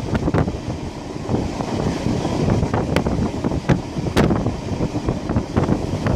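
Passenger train running, heard from a carriage window: wind buffeting the microphone over a steady rumble of running noise, with a few sharp knocks from about three seconds in.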